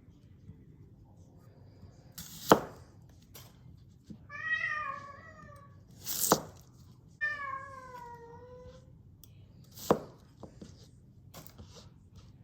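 A domestic cat meows twice, two long drawn-out calls, one falling in pitch. Between them come three sharp knife chops from a thinned Global G2 gyuto cutting through carrot, the first the loudest.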